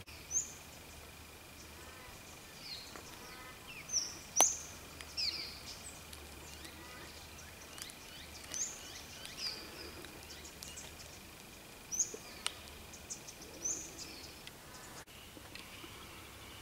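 Wild birds calling in bushland: many short, high chirps, several falling in pitch, scattered throughout. A sharp click about four seconds in is the loudest sound.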